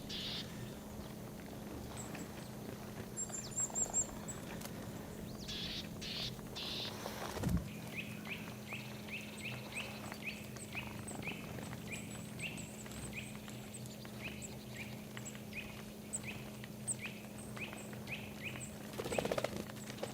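Birds calling: a run of short, sharp chirps, about two or three a second, starts about eight seconds in and goes on until near the end, over fainter high ticking calls.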